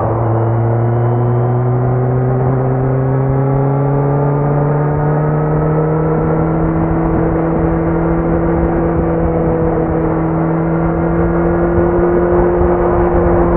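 Kawasaki Z900 inline-four running through a Leo Vince muffler with the dB killer removed, pulling steadily under load with its pitch climbing slowly and evenly.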